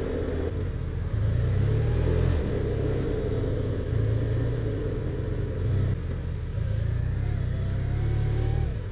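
BMW R1200RT's flat-twin engine running at low speed as the motorcycle is ridden, its note rising and falling with the throttle.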